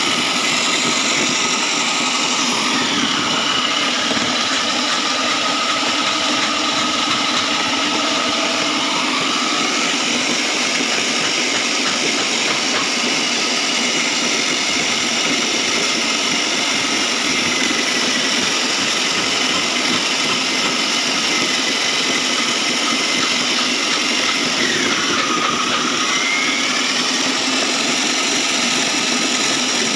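Foam shredder machine running steadily, its motor and cutters making a continuous loud mechanical whir, with the pitch dipping briefly a few times.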